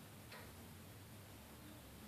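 Near silence: a faint steady room hum, with one faint click about a third of a second in.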